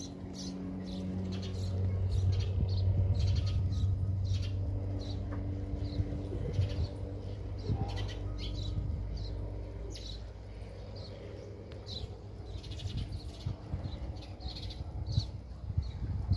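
Small birds chirping over and over in short calls, over a low steady rumble.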